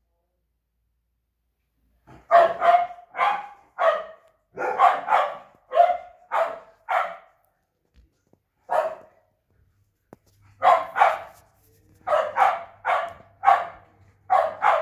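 Dogs barking in runs of short, loud barks about two a second, starting about two seconds in, with a lone bark and a pause near the middle before the barking picks up again.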